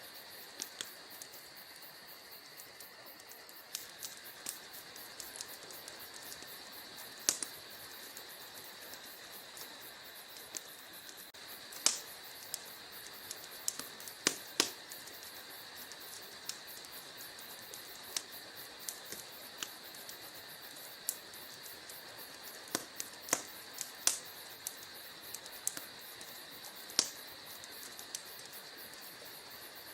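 Wood fire crackling in a fireplace: irregular sharp pops and snaps, a few much louder than the rest, over a steady high hiss.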